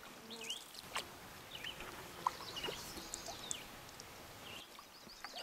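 Faint birdsong: several birds giving short chirps and quick whistled glides over a soft background hiss.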